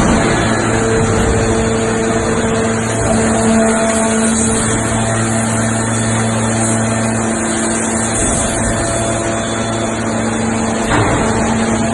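Steady machine hum of a large hydraulic forging press's pump unit. A short clunk comes about eleven seconds in.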